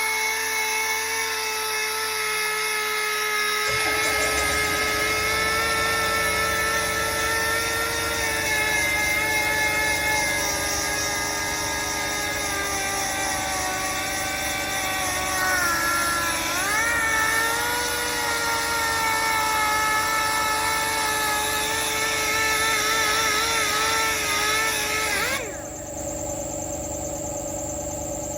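High-speed air-powered body-work tool running with a steady high whine that sags under load and picks up again several times as it works the metal. About four seconds in, a lower steady rumble joins it. The whine cuts off suddenly near the end, leaving the rumble.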